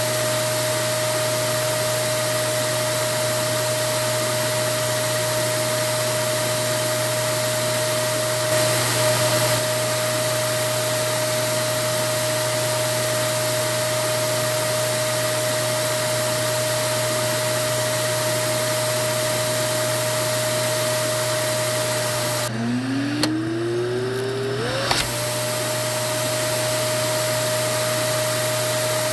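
Vacuum cleaner running steadily: an even rushing noise with a constant motor whine. About 22 seconds in the rushing briefly drops away and the whine falls low, then climbs back up to its running pitch over two to three seconds.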